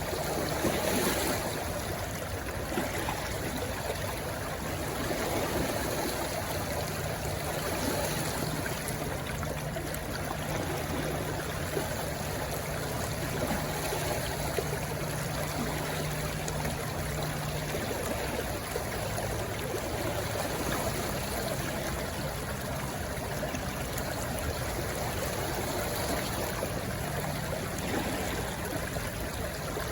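Small stream rushing steadily as it runs into the sea. A faint low hum sits under the water for a while in the middle.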